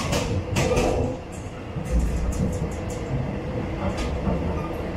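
Cabin noise inside a moving Philippine National Railways commuter train: a steady running rumble with several sharp knocks, a cluster near the start and another about four seconds in.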